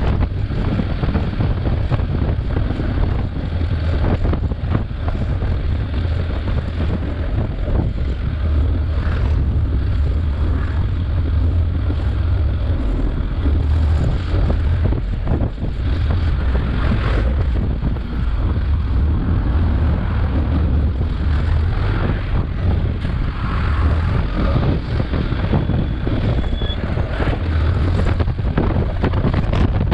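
Steady wind rush on the microphone mixed with motorcycle engine and road noise while riding, heaviest in a deep rumble.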